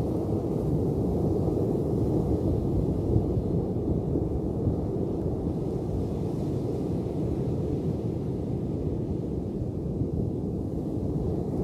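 Ocean waves: a steady, deep rush of surf, with no separate wave crashes standing out.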